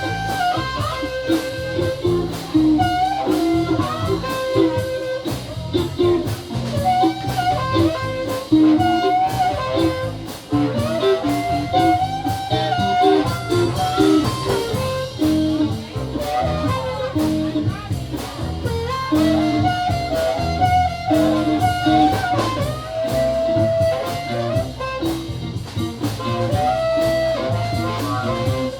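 A live blues-soul band playing an instrumental break, with a lead melody over electric guitar, bass and a steady drum beat.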